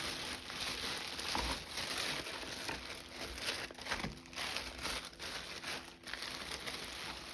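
Packaging crinkling and rustling as a container of small craft stamps is rummaged through, irregular and continuous.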